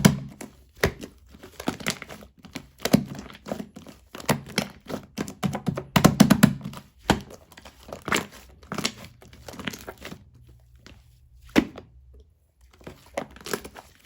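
Clear slime mixed with shaving foam being squeezed, stretched and pressed by hand: a rapid, irregular run of sticky pops, clicks and crackles with soft squishy thuds, pausing for a couple of seconds near the end.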